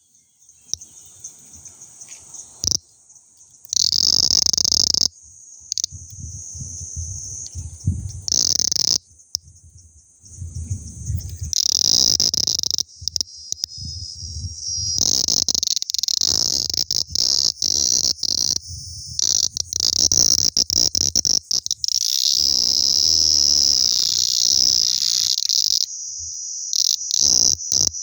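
Auritibicen intermedius cicada giving its distress scream: harsh, high buzzing that starts and stops abruptly in irregular bursts, faint at first and louder and longer in the second half, with a low rumble under the bursts.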